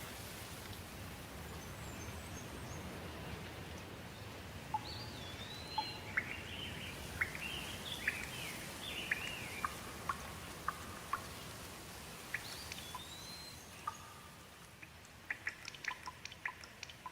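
Steady rain with birds calling over it: a few whistled calls that rise and fall, and quick runs of short chirps in the middle. Near the end the rain thins and sharp drips or small clicks stand out.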